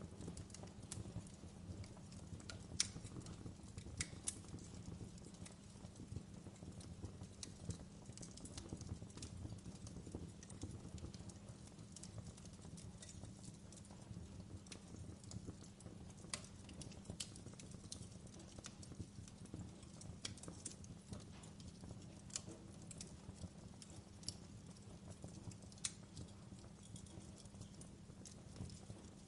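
Wood fire burning in a fireplace: irregular crackles and occasional sharper pops over a steady low rumble.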